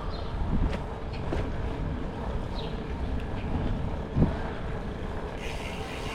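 Wind buffeting the microphone over the steady rumble of a bicycle rolling along the trail, with a few light knocks and a sharper bump about four seconds in. A few short, high chirps sound faintly over it.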